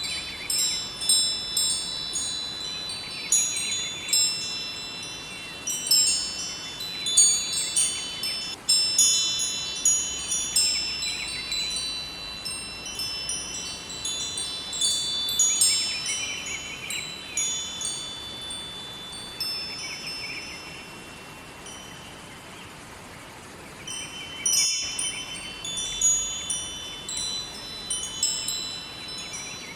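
Wind chimes ringing, high tones struck in irregular clusters as the chimes swing, each ringing on and overlapping the next. The strikes die away into a short lull about two-thirds of the way through, then resume.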